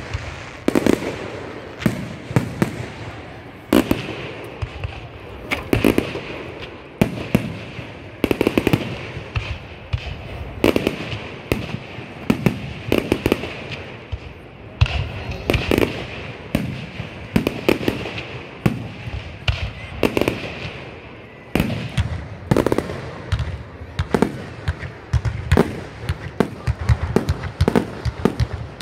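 Fireworks display: an irregular barrage of shell bursts, dozens of sharp bangs, often several a second, with crackle between them.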